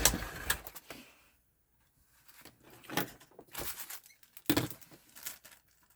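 A string of short clicks and knocks from PS4 console parts being handled, with the loudest knock at the very start and several more in the second half.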